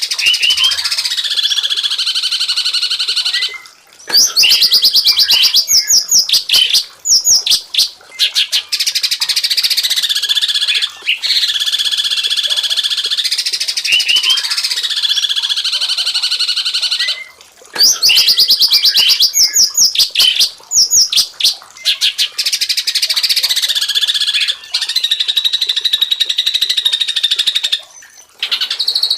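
Songbird masteran recording: a continuous stream of high chirps, whistles and rapid trills. The same passage appears to repeat about every 14 seconds, as in a looped training track.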